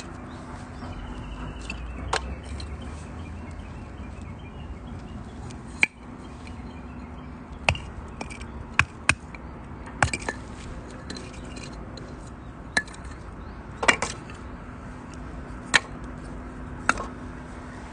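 Wood campfire burning, crackling with about a dozen sharp, irregular pops over a low steady background.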